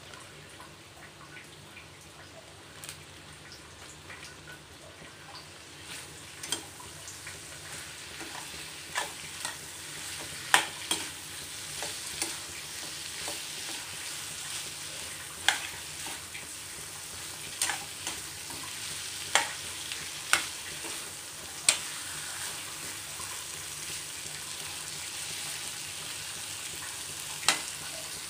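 Chicken varuval sizzling as it fries in a stainless steel kadai, the sizzle growing louder through the first half. A metal spatula stirs and scrapes the pieces, with sharp clacks against the pan every few seconds.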